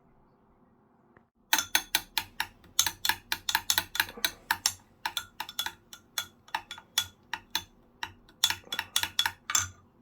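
Kitchen knife chopping on a cutting board: a fast, uneven run of sharp knocks, about four or five a second, with short pauses, starting about a second and a half in.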